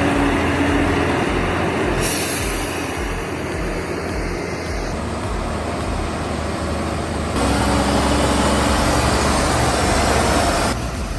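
Heavy vehicle running with a dense rough rumble and road noise. The sound changes abruptly a few times as separate clips are cut together.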